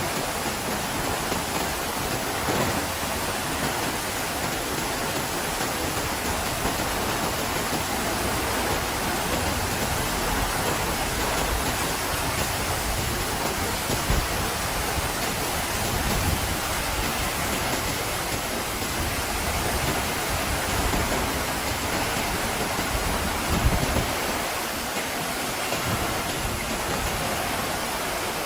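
Heavy rain falling in steady, even noise, with wind buffeting in the low end and a few brief louder bumps along the way.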